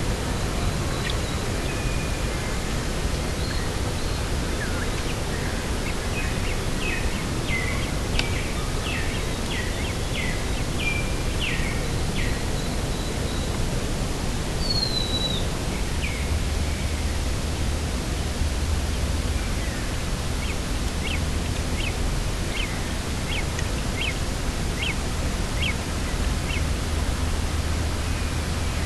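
Steady wind rush with a bird calling over it: two runs of quick, short chirps, about two a second, and a single falling call between them. A low rumble joins the wind about halfway through.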